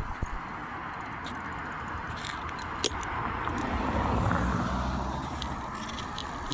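A car driving past on the street, its tyre and engine noise swelling to a peak about four seconds in and then fading, over a steady background rush of outdoor noise. There is a single sharp click just before it.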